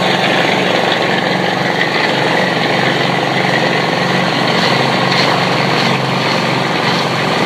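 A machine's engine running steadily at constant speed: a continuous drone with a low hum.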